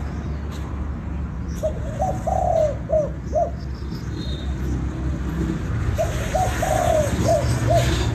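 Spotted dove cooing: two matching phrases about two seconds apart, each a few short coos around one longer drawn-out coo.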